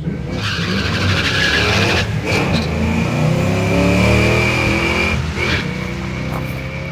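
Fox-body Ford Mustang launching and accelerating hard down a drag strip. The engine pitch climbs through the gears and drops at shifts about two and five seconds in. It is loudest as the car passes about four seconds in, then fades down the track.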